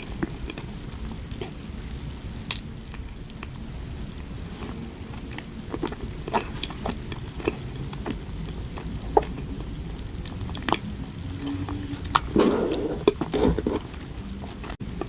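Close-up eating sounds: scattered sharp clicks and soft bites of chewing over a steady low hum, with a louder burst of rustling near the end.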